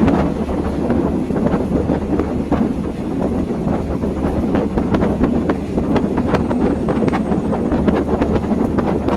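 Passenger train running along the track, heard from on board: a steady rumble with frequent irregular clicks and rattles.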